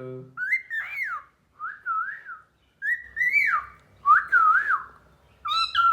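Cockatiel whistling a series of about five short, warbling phrases, each gliding up and down in pitch.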